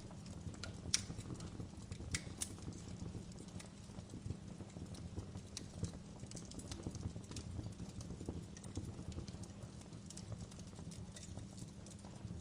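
Wood fire burning in a fireplace: a low steady rumble of flames with scattered crackles and pops, a few sharper snaps about a second in, around two seconds in and near the middle.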